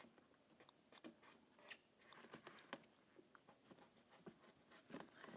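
Faint, scattered scratching and crackling: a plastic door water shield being peeled back while a razor blade cuts through its sticky adhesive.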